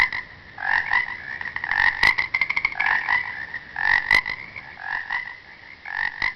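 Frog croaking: short calls repeated about once a second, with a fast rattling trill about two seconds in.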